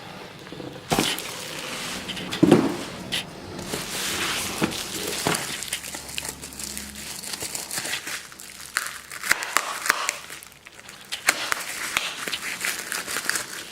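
Packaging being unwrapped by hand: plastic and paper wrapping crinkling and rustling in irregular bursts, with a few knocks along the way.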